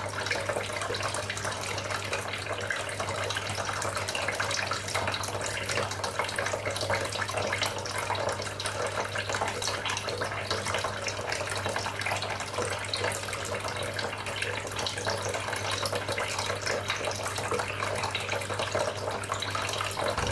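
Homemade tabletop water fountain: water trickling and splashing steadily, with a low steady hum underneath.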